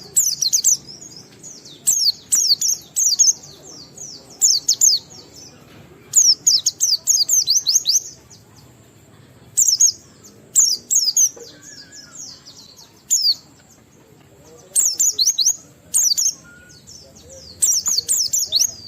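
Pleci (white-eye) singing in its 'ngalas' style: rapid runs of high, quickly falling chirping notes in phrases of one to two seconds with short pauses between. This is the full song that keepers play to set other white-eyes singing.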